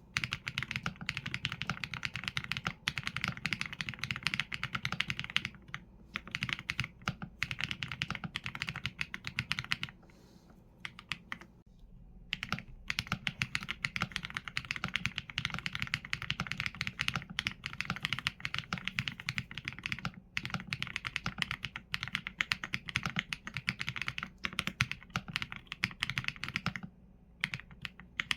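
Fast, continuous typing on a Qsenn A75 mechanical keyboard with Leobog Graywood V4 linear switches and PBT keycaps: a dense run of keystrokes broken by short pauses, the longest about ten seconds in.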